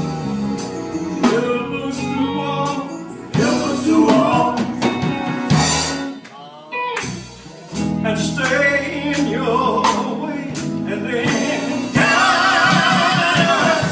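Gospel music: a male vocal group singing with band accompaniment and drums, the voices holding long, wavering notes near the end.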